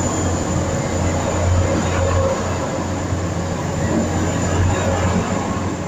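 TransPennine Express diesel train running close by with a steady low drone and a thin, steady high whine.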